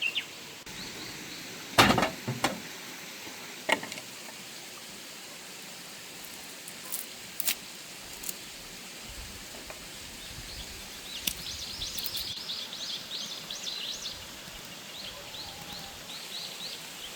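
Quiet outdoor ambience with a few sharp knocks about two seconds in and again near four seconds, then a small bird singing quick runs of repeated high chirps through the second half.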